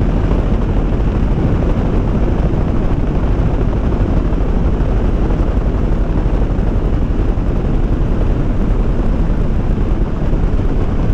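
Motorcycle under way: steady wind rush over the microphone mixed with engine and road noise, loudest in the low range and unchanging.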